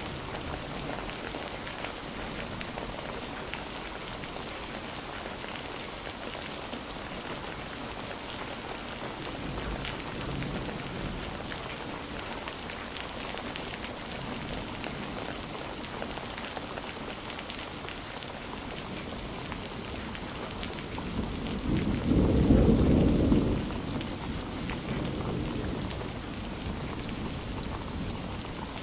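Steady rain falling, with a faint roll of thunder about ten seconds in and a louder rumble of thunder about three quarters of the way through that swells and fades over a few seconds.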